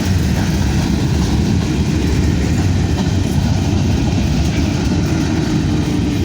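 Freight train cars rolling past close by: a loud, steady noise of steel wheels on rails.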